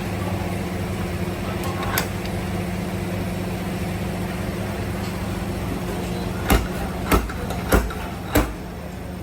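Steady hum of a running workshop motor. Near the end come four sharp knocks about half a second apart, hammer blows on car body metal during panel beating.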